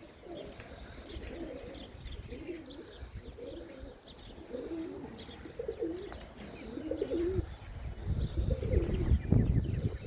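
Domestic pigeons (Serbian Highflyers) cooing over and over in wavering low calls, with faint high chirps above them. A low rumble builds near the end and is the loudest sound there.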